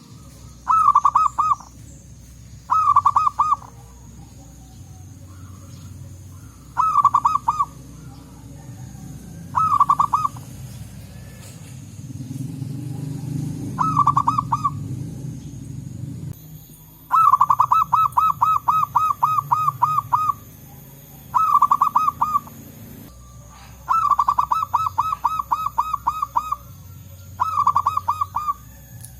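Zebra doves (perkutut) calling: nine bursts of rapid, evenly repeated cooing notes. Most are short, and two run for two to three seconds. A low rumble swells in the middle.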